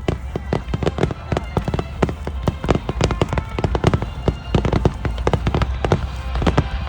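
Aerial fireworks display in full barrage: a dense, irregular run of sharp bangs and crackles, several a second, over a continuous low rumble.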